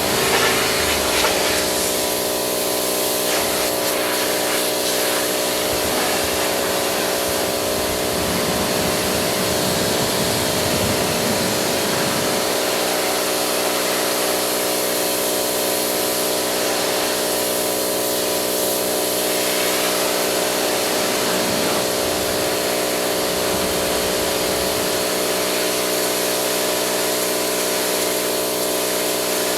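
Pressure washer running steadily, a constant motor hum with the hiss of its water jet spraying.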